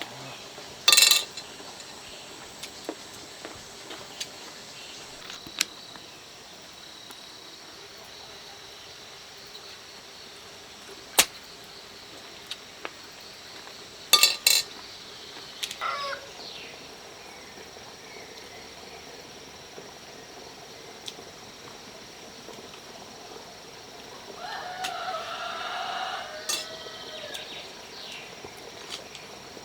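A few scattered sharp clicks and knocks, the loudest about a second in and twice around fourteen seconds in. Near the end comes a short stretch of a wavering, pitched sound.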